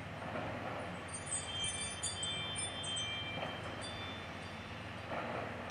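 Ring camera alert chime from a cell phone: a run of high, bell-like chime tones from about one to four seconds in.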